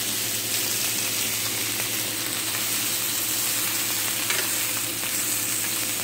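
Salmon steaks sizzling steadily in an oiled ridged grill pan, with metal tongs now and then nudging the fish around so it won't stick. A fan hums steadily underneath.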